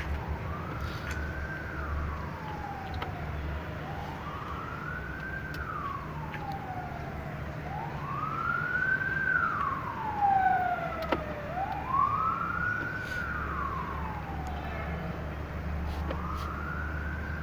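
An emergency vehicle's siren wailing, its pitch rising and falling slowly, about one sweep every four seconds, over a steady low hum.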